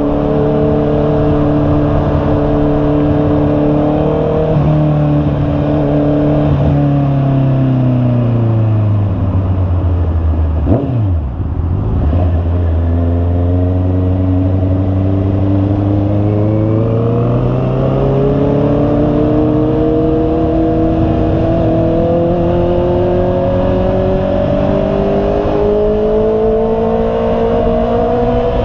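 Honda CB650R's inline-four engine running on the move. The revs fall over the first ten seconds or so, stay low for several seconds, then climb gradually as the bike accelerates toward the end.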